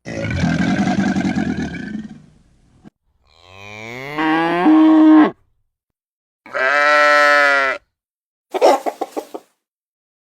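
A run of separate animal calls with short silences between, among them a cow mooing. There are four calls: a rough one, then a moo that rises in pitch and holds, then a steady call, then a short stuttering one near the end.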